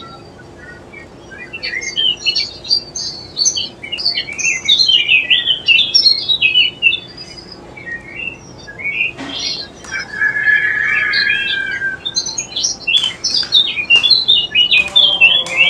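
Birds chirping and twittering in quick runs of high notes, with a longer warbling phrase about ten seconds in and a few sharp clicks.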